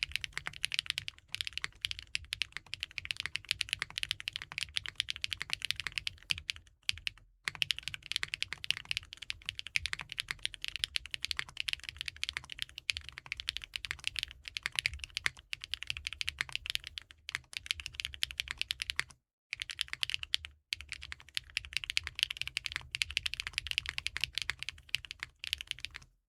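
Fast, continuous typing on a KNC Keys Geim 65 custom 65% mechanical keyboard with KeyGeek M3 linear switches and GMK keycaps, with short pauses about seven seconds in and around nineteen to twenty seconds in.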